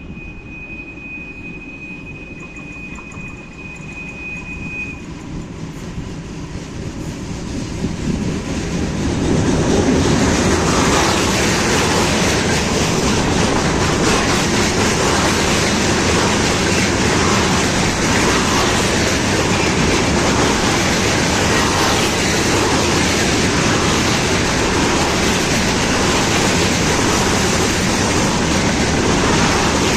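A train approaching and rolling past close by, its wheels clattering over the rail joints. A thin, steady, high squeal is heard for the first few seconds as the sound grows. From about ten seconds in, the train's loud rumble and clatter carry on steadily.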